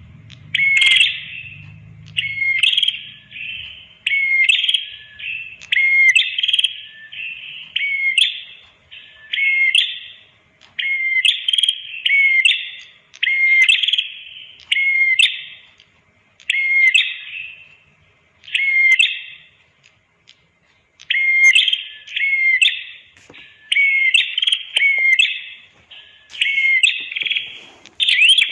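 Red-headed prenjak song: a run of quick, sharp chirping phrases, each about a second long, repeated with short gaps and thinning briefly in the middle.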